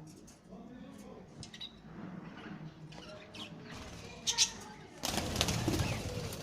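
Parrots giving short scattered chirps and calls, one louder call a little past the four-second mark, then a louder stretch of noise near the end.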